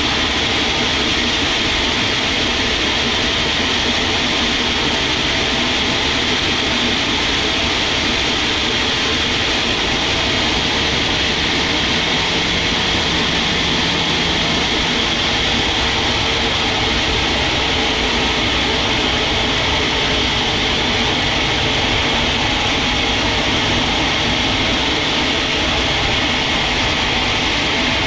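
Sawmill machinery running with a loud, steady mechanical noise that holds constant throughout.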